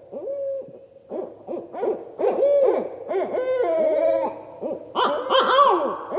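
Several owls hooting at once, a rapid overlapping series of rising-and-falling hoots. A louder, harsher call comes in about five seconds in.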